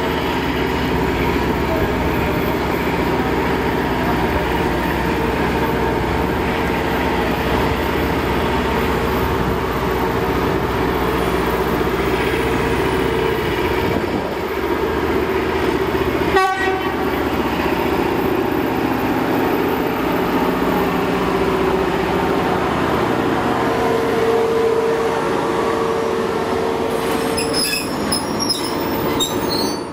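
URR-112-5A rail-grinding train running past at low speed: a loud, steady mechanical noise with a constant hum, as its engines and running gear go by.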